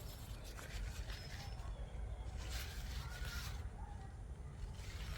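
Birds chirping faintly and intermittently over a low, steady rumble, with a soft rustling about two and a half seconds in.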